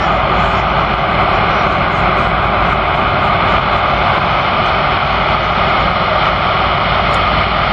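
Jet airliner's engines, a steady loud rush with no change in pitch.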